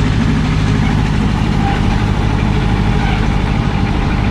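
A motor vehicle's engine running steadily, a low, even hum with no change in speed.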